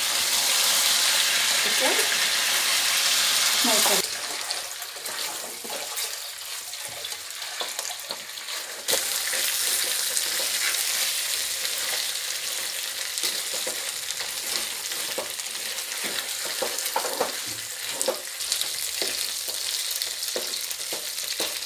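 Chicken pieces shallow-frying in hot oil in a kadai, sizzling, with a spatula clicking and scraping against the pan as they are stirred. The sizzle is loud at first and drops suddenly about four seconds in.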